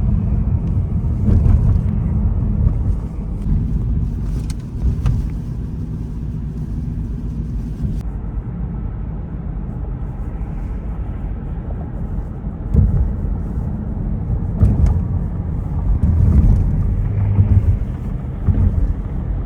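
Car driving, with a steady low road rumble and a few light ticks.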